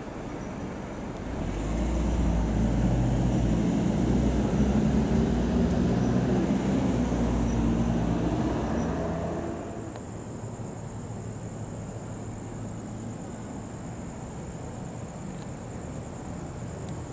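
A train passing on the tracks. A rumble with a low, engine-like hum builds about a second and a half in, holds, and dies away at about nine and a half seconds. After it a steady high-pitched whine remains.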